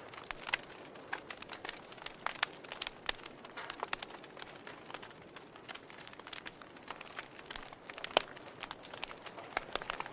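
Wood fire burning in a fireplace, crackling: irregular sharp pops and snaps over a soft hiss.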